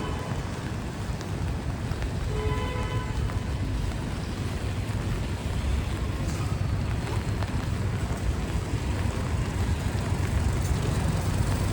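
Rainy city street ambience: steady traffic rumble with the hiss of rain and wet tyres on the road. A brief faint pitched sound comes through about two and a half seconds in.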